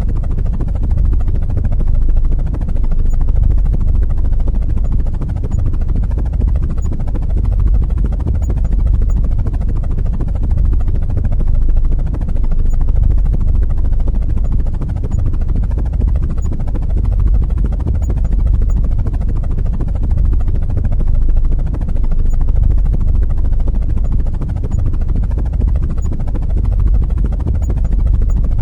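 Helicopter rotor noise: a steady, loud, low whir.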